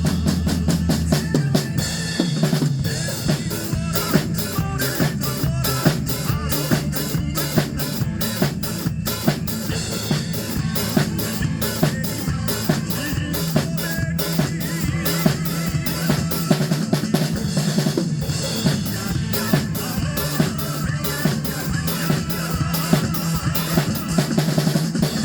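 Acoustic drum kit played to a fast, steady beat of bass drum, snare and rimshots over a Korean trot song's backing track.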